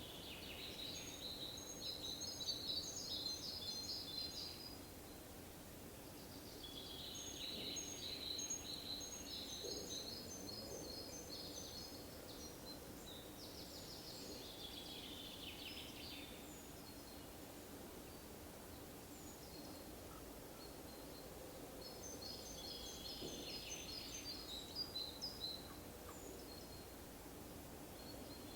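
A songbird singing four separate phrases of rapid, high notes, each two to four seconds long and a few seconds apart, the third phrase ending in a quick falling trill, over a faint steady low hum.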